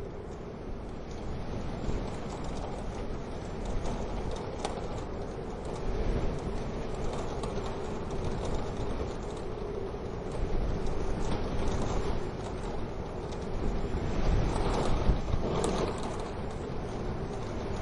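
Wood fire in a stove crackling with scattered sharp pops, over a steady low rush of wind that swells louder for a few seconds after the middle.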